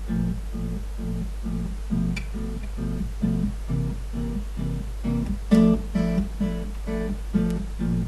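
Background music: an acoustic guitar plays a steady, even rhythm of about three notes a second.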